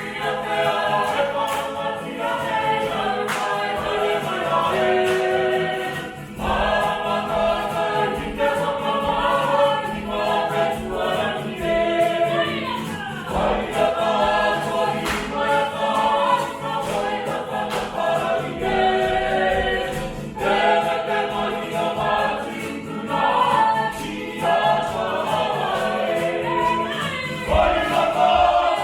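A group of voices singing together like a choir, in phrases with short breaks between them.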